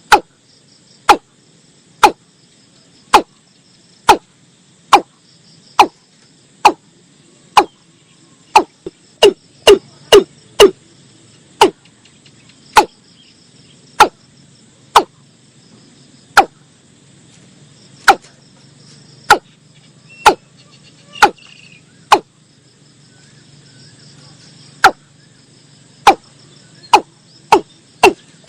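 Watercock calling: a long series of short, sharp notes that drop in pitch, about one a second, quickening into quick runs about ten seconds in and near the end. Steady insect chirring runs underneath.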